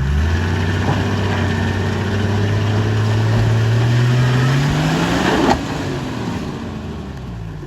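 Toyota LandCruiser engine pulling under load in low range, its revs climbing about five seconds in. A sharp knock then comes as the vehicle's bodywork strikes the ground, and the engine eases off.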